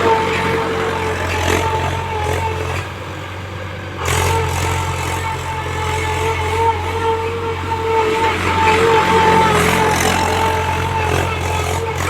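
Mahindra tractor running steadily under load while threshing paddy, its engine hum carrying a steady high whine. The sound drops for about a second, then comes back sharply about four seconds in.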